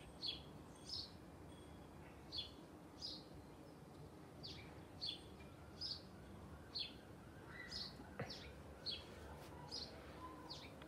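A small bird chirping over and over, faint: more than a dozen short high chirps, each falling in pitch, spaced about a second apart, with a single faint click near the end.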